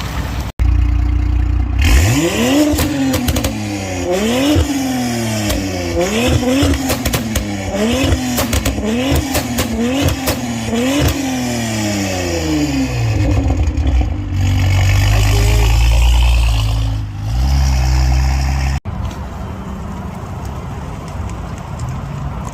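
A car engine revved again and again, its pitch climbing and dropping about once a second, with sharp cracks mixed in. It then falls back to a steady low rumble, which cuts off suddenly near the end to quieter engine noise.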